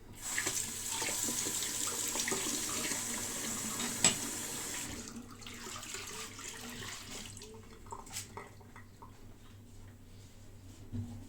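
Tap water running into a sink, turned on at the start and shut off about five seconds in, with a sharp click partway through and a few small clicks afterwards.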